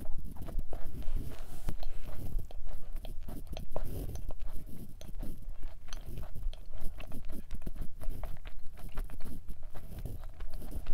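Close-miked chewing of a bite of thick, soft-centred chocolate chip cookie, with many small irregular wet clicks and soft crunches.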